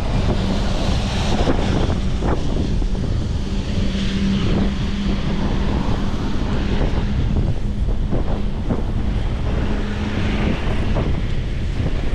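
Wind buffeting the microphone of a camera on a folding bike riding fast downhill, a loud, gusty rush, with a steady low hum underneath that stops about ten seconds in.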